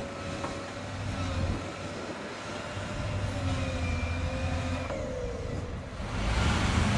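Truck engine running with a steady low hum and a faint whine that shifts in pitch; it grows louder with added rushing noise about six seconds in.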